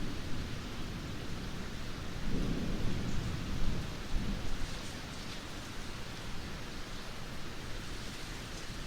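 Heavy rain falling steadily, with a low rumble of thunder swelling and fading about two to four seconds in.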